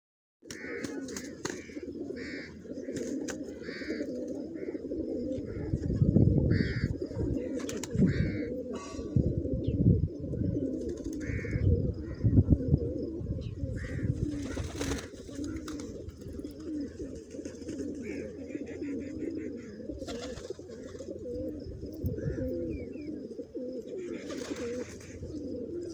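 A flock of domestic pigeons cooing over one another without a break, with short higher-pitched bird calls scattered through and a few low thumps between about six and thirteen seconds in.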